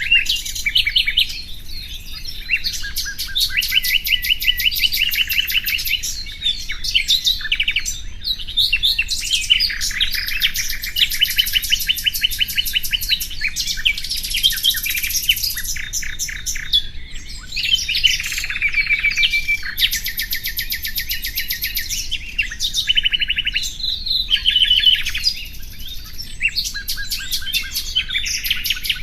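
Common nightingale singing a continuous run of varied phrases, mostly fast trills of repeated high notes, with short gaps between phrases.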